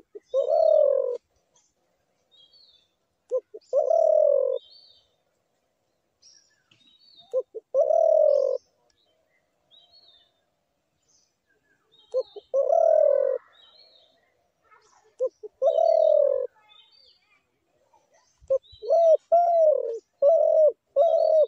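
Spotted dove cooing: five calls a few seconds apart, each a short note or two followed by a longer coo, then a quicker run of four coos near the end. Small birds chirp faintly in the background.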